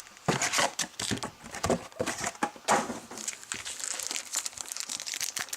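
Plastic and foil wrapping on trading card packs crinkling and tearing as the packs are handled and opened, in quick irregular crackles.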